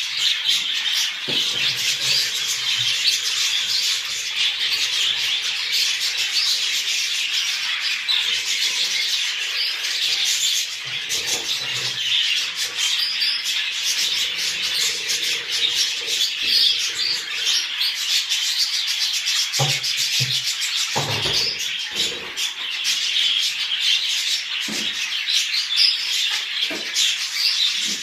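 A flock of budgerigars chattering and warbling continuously, dense overlapping chirps. A few soft low knocks come about two-thirds of the way through.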